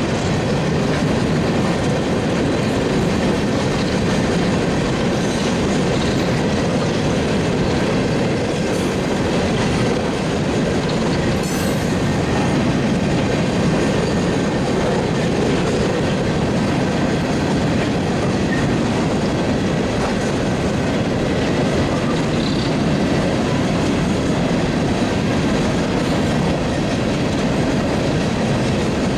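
A long string of bathtub-bottomed coal gondolas rolling past, a steady rumble of steel wheels on the rails.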